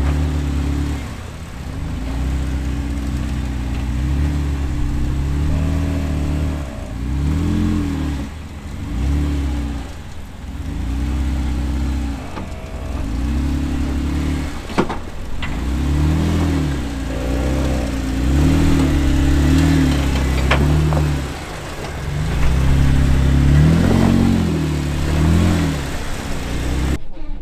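Off-road Jeep Wrangler engine revving up in repeated bursts and dropping back, as when crawling over rock, with a sharp knock about halfway through.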